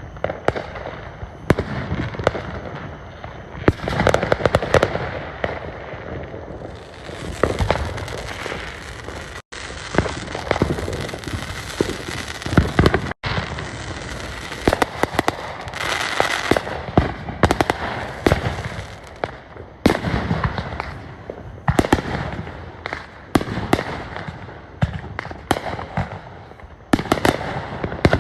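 Fireworks going off in quick succession: a continuous run of bangs and pops, with stretches of dense crackling in the middle.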